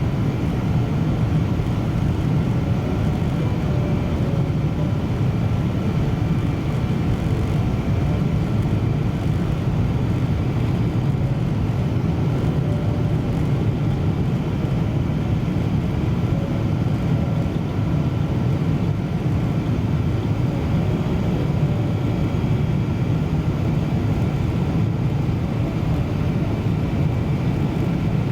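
Steady cabin noise inside a Boeing 777-200 airliner: a low, even rumble of engines and airflow with a faint steady hum above it.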